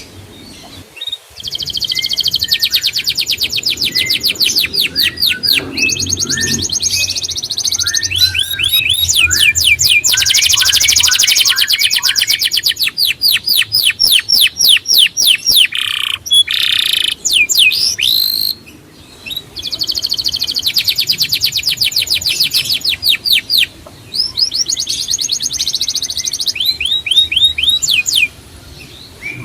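A songbird singing long, loud trills: phrases of several seconds, each a very fast run of repeated high notes, separated by short pauses.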